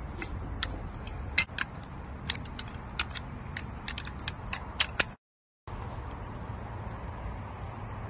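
Irregular sharp clicks and taps over a steady low background, like small hard objects being handled. About five seconds in, the sound cuts out to silence for half a second and comes back as a steady low hum.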